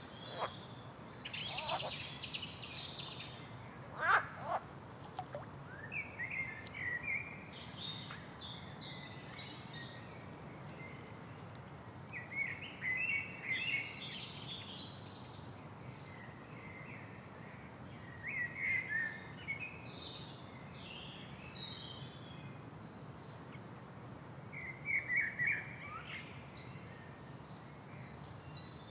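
Several birds singing and chirping over a steady low background, one repeating a high, quickly falling phrase every four or five seconds while others add short chirps and trills.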